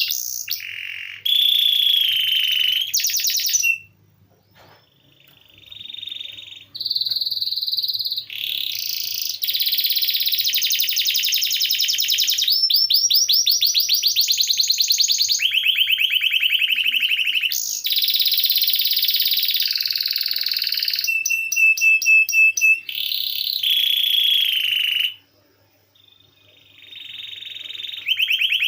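Domestic canary singing long rolling trills: runs of rapid repeated high notes that switch to a new pitch every second or two, with two brief pauses.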